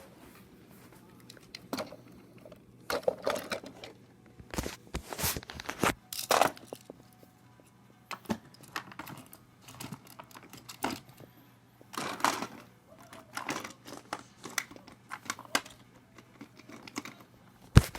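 Irregular rustling and clicking handling noises in short bursts, with a sharp click near the end.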